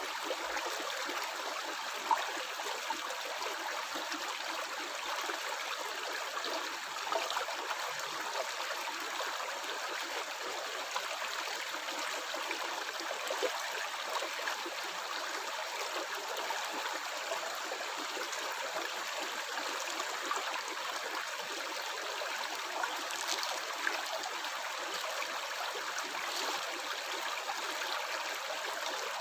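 Stream water flowing and gurgling steadily, with a few small splashes.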